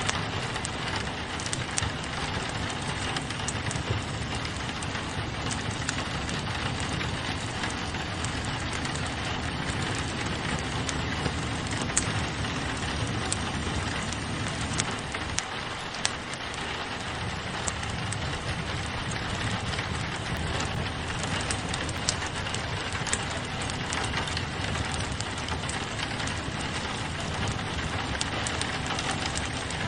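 Steady rain pattering on a window over a crackling wood fire, with a low rumble underneath and scattered sharp pops from the burning logs, a few louder than the rest.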